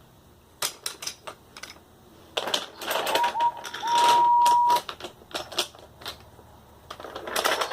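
Clicking and clattering of wooden toy trains and track being handled, with a train whistle: two short toots, then one long held toot.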